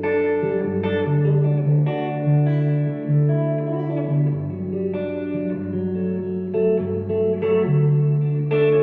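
Instrumental band music led by electric guitar through effects, with a bass line moving under sustained chords that change about every second or two.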